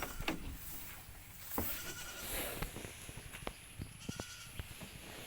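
Faint animal bleating, with scattered clicks and knocks.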